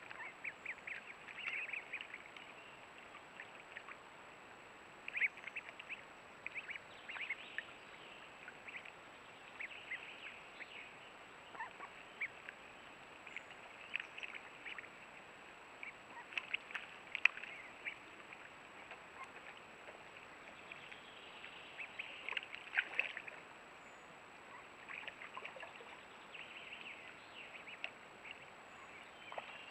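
Mallards calling in short, irregular quacks and chatter, over a steady background hiss.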